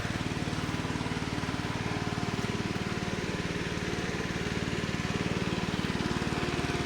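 Small vehicle engine running steadily at an even speed, its rapid firing pulses heard from on board the moving vehicle.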